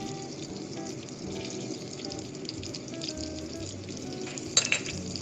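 Garlic sizzling as it fries in oil and butter in a pot, a steady crackle. Two sharp knocks near the end.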